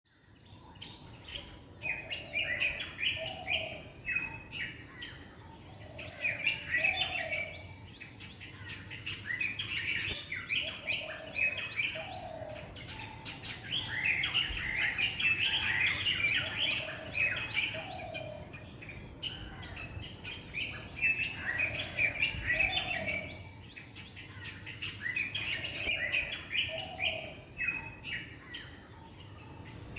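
Black drongo calling: bouts of rapid chirps recurring every few seconds, each with a couple of lower notes. A steady high-pitched whine runs underneath.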